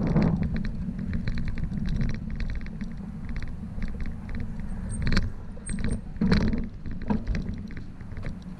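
Riding noise from a moving bicycle: a steady rumble of the tyres on the road, with the bike rattling continuously and a few sharper knocks about five and six seconds in.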